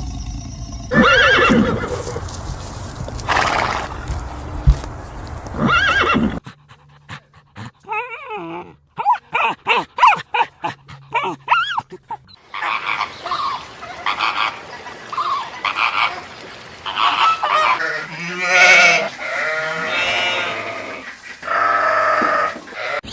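Goats bleating, in two recordings joined by a cut about six seconds in: first a few calls over a low steady rumble, then a long run of short, quick bleats followed by longer drawn-out ones.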